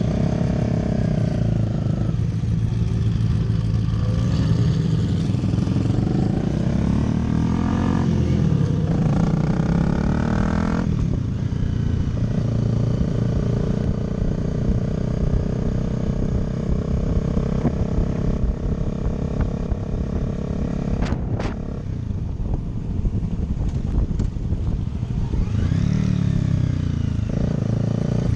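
Motorcycle engine pulling through the gears, its pitch climbing and dropping at each shift several times in the first ten seconds or so. It then holds a steady cruise and climbs again near the end.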